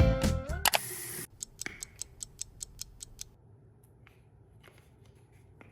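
Music ends, then a short hiss and a fast, even run of light clicks, about six a second, followed by a few scattered faint clicks.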